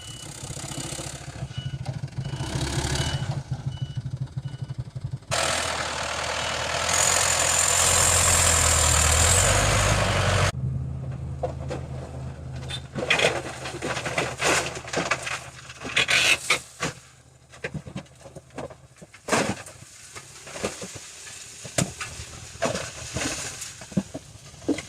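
Dump truck engine running with its reversing beeper sounding for the first few seconds. It then revs hard for about five seconds with a high whine, typical of the hydraulic hoist raising the tipper bed. It then drops back to idle under scattered knocks and clatter.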